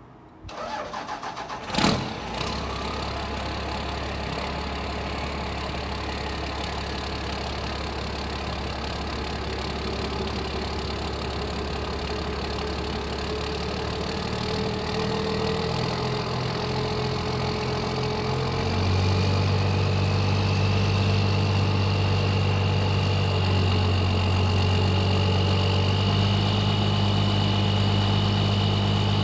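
Cold start of a 1995 Dodge Cummins 12-valve inline-six diesel with a built 12 mm P-pump, heard through a 3-inch straight-pipe exhaust: the starter cranks briefly, the engine catches loudly about two seconds in, then settles into a steady idle. About two-thirds of the way through the idle steps up higher and louder, with a faint whine rising in pitch over the second half.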